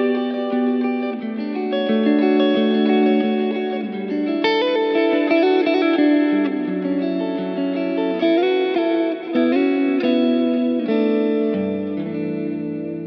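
Vola OZ V3 MC electric guitar playing a melodic line of sustained notes, with a few wavering bends. Near the end it settles on a low note that is left ringing and slowly fading.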